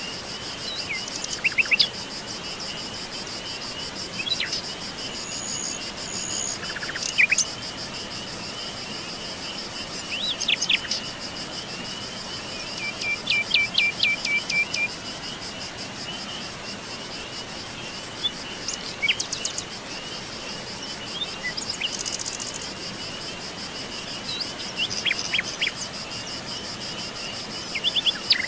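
Forest songbirds giving short chirps and calls every few seconds, one of them a quick run of repeated notes. Behind them runs a steady, high, pulsing insect trill.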